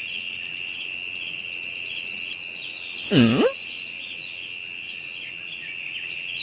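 Steady high-pitched insect chirring, like crickets, with one short call that dips and then rises in pitch about three seconds in.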